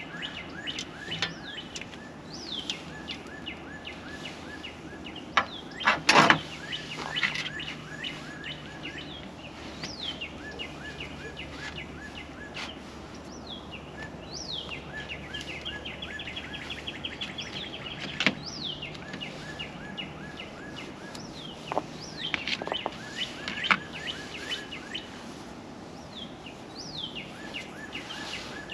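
Birds chirping again and again in quick series of short notes, some rising in pitch, over a steady outdoor hiss. A sharp knock comes about six seconds in and another just after eighteen seconds.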